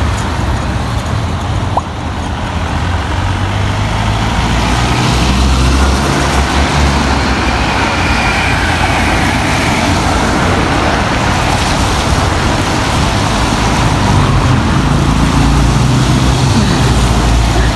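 Road traffic passing steadily, with engines running and tyres on a wet road.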